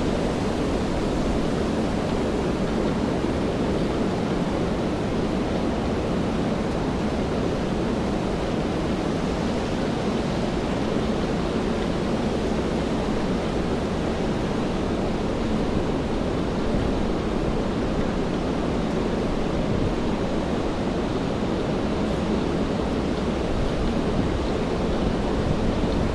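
Steady rain falling on city streets: an even hiss with no separate events.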